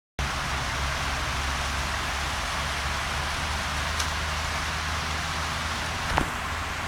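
Steady rainfall, an even hiss of rain coming down and hitting surfaces, with a low steady hum underneath. Two sharp ticks of drops stand out, the louder one near the end.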